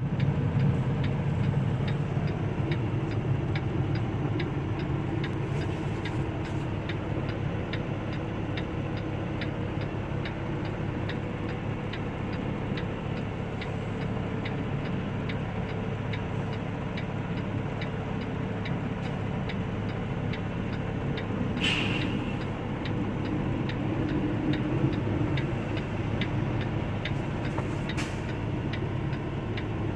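Steady drone and rush of a vehicle driving at highway speed, heard from inside the cabin, with a light regular ticking throughout and a couple of brief sharp clicks late on.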